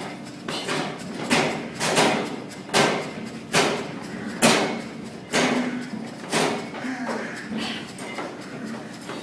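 Heavy battle ropes slapping the floor in a steady rhythm, one loud slap about every three-quarters of a second.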